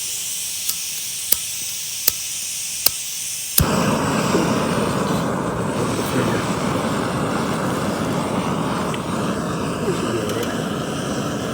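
BRS backpacking canister stove hissing unlit gas while it is clicked several times to light it, catching with a sudden whoosh about three and a half seconds in, then burning with a steady roar.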